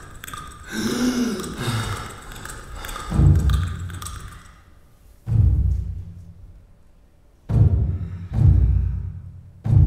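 Performance music built on deep booming drum strikes: five separate hits, each ringing out and dying away, the first about three seconds in and the last near the end. A brief swooping pitched tone comes before them, about a second in.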